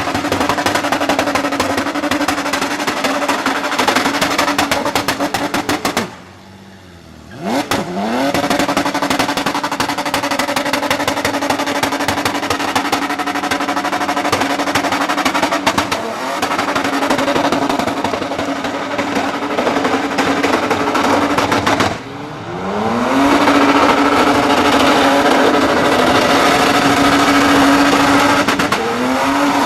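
Car engine held at high, steady revs, dropping off sharply twice and revving back up each time with a rising note.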